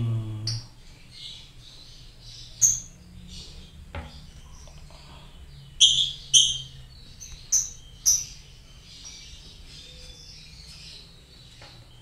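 Lovebirds chirping: constant high twittering, with sharp, shrill chirps standing out, several close together about six to eight seconds in. A single click about four seconds in.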